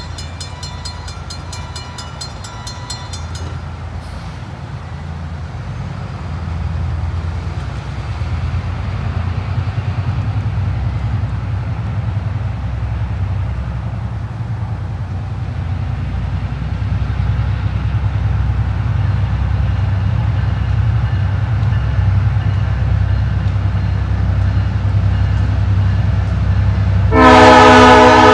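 A level-crossing bell rings rapidly for the first few seconds and stops, while the low rumble of an approaching diesel locomotive slowly grows louder. About a second before the end, the locomotive's horn sounds loudly, a chord of several tones.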